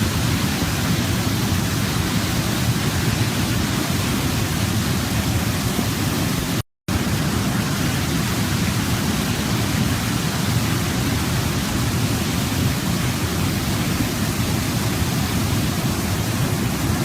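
Waterfall: a steady, even rush of falling water, fullest in its low rumble. It is broken once, about seven seconds in, by a split-second gap of silence.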